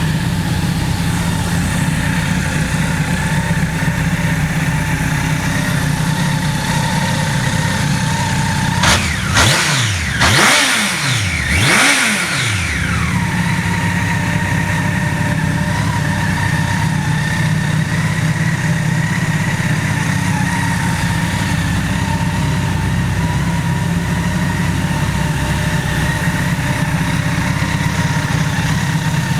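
Honda CBR1100XX Blackbird's inline-four engine idling steadily, with three quick blips of the throttle about a third of the way in, each rev rising and dropping straight back to idle.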